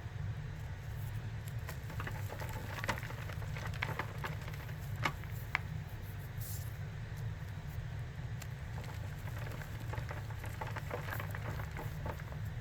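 Compacted cornstarch being crushed and crumbled, giving scattered crisp, crackly crunches that come thicker in a couple of stretches, over a steady low hum.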